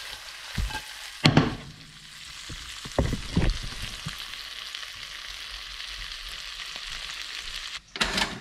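Sliced abalone frying in garlic butter in a pan, a steady sizzle with a few sharp knocks about one and three seconds in. Near the end the sizzle cuts off and a short clatter follows.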